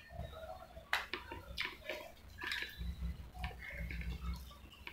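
Close-up wet chewing and mouth noises of a person eating soft, spongy medu vada by hand, with scattered squishes and a few sharp smacks.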